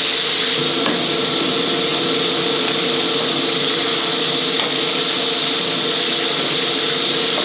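Bitter melon pieces sizzling steadily as they deep-fry in hot oil in a wok, over a steady low hum, with a couple of light knocks as a wire strainer works the pieces.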